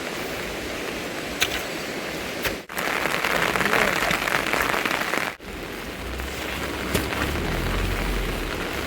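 Steady rain falling, with a few sharp drop-like taps. The rain is louder for a few seconds in the middle, broken by two brief cut-outs, and a low rumble comes in during the second half.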